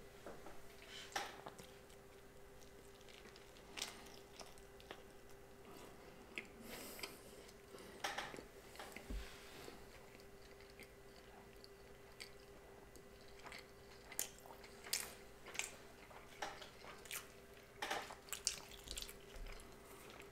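A person chewing a mouthful of spicy tuna onigiri, mostly rice with little filling. The chewing comes as soft, irregular wet mouth clicks and smacks, more frequent in the second half.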